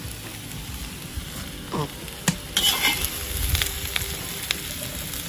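Potatoes and onion sizzling as they fry in a cast-iron kazan, with a metal skimmer scraping and stirring through them from about two and a half seconds in, and a few sharp ticks of metal on the pot.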